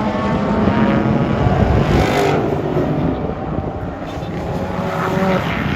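Race car engines running hard on the track. One car passes loudest about two seconds in, its engine note dropping as it goes by.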